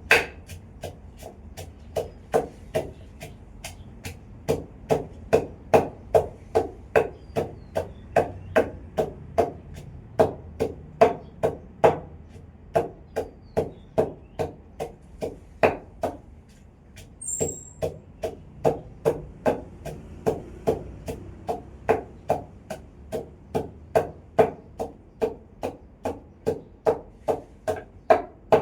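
A pestle pounding chili and garlic in a mortar: steady dull strikes, about two a second, with a short pause about halfway through.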